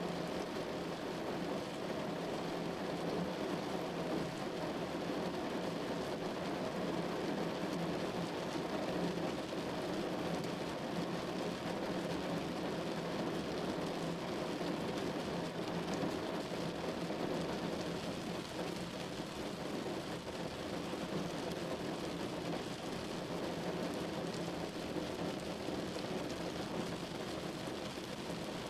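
Steady rain falling on a window, an even, unbroken wash of sound with no single drops or gusts standing out.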